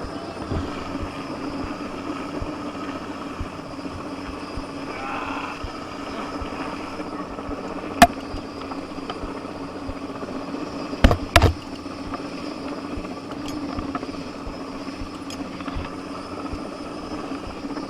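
Helicopter crane hovering with a load, its rotor and turbine making a steady hum. Sharp knocks stand out over it, once about eight seconds in and twice in quick succession a few seconds later.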